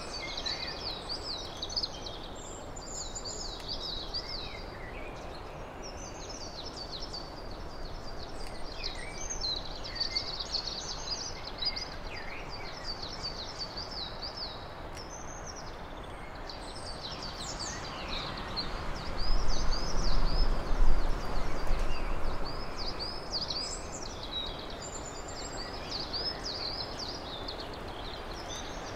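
Songbirds chirping busily over a steady outdoor hiss, with a louder rushing swell of noise for a few seconds past the middle.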